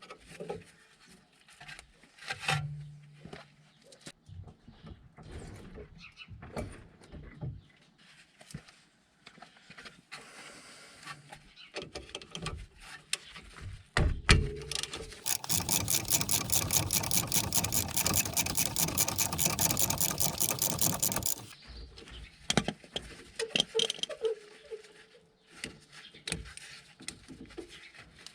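Scattered clicks and taps of hand tools, then a sharp knock about halfway. Right after it comes a fast, steady run of ratchet-wrench clicks lasting about six seconds, the loudest part.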